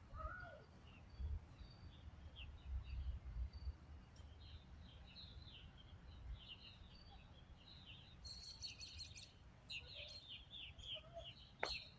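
Small birds chirping in quick twittering runs, busiest in the second half, over a faint low rumble. A single sharp click comes near the end.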